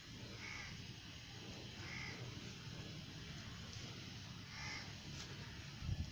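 A bird calling three times with short, harsh calls a second or two apart.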